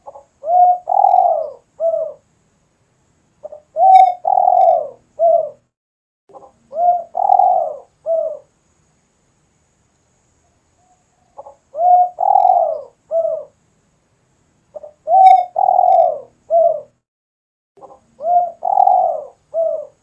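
Spotted dove (tekukur) cooing: six phrases, each a short lead-in note followed by three loud cooing notes, about every three seconds, with a longer pause in the middle.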